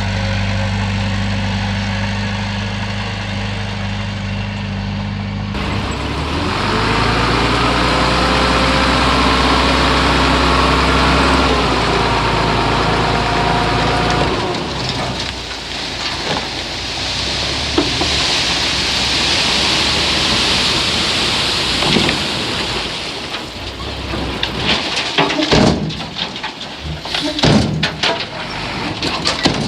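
Heavy diesel engine idling, then revving up about six seconds in and holding high revs for several seconds before dropping back. After that comes a steady rushing noise, with scattered knocks and clatters near the end.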